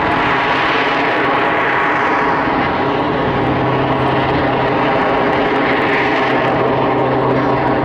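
Jet Pitts aerobatic biplane, a propeller aircraft fitted with turbojets, flying its display with engines running loud and steady. A low steady hum joins about three seconds in.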